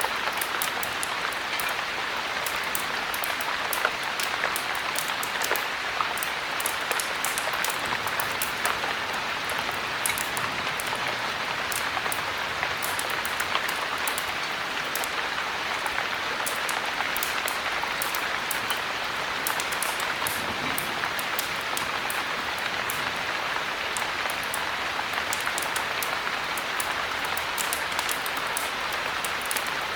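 Steady heavy rain, an even hiss with many small sharp clicks scattered through it.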